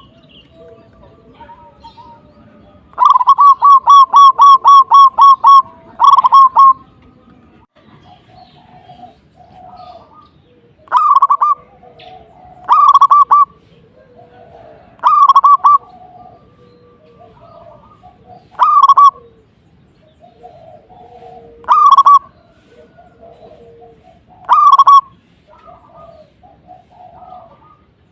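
Zebra dove (perkutut) cooing loudly. About three seconds in comes a fast run of about ten clipped notes, and after it short trilled coos follow every two to three seconds. Fainter, lower calls sound between the coos.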